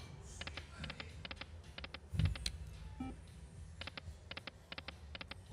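A slot machine ticking during a spin: short clusters of sharp clicks, several a second, over a low casino hum, with a soft thump about two seconds in.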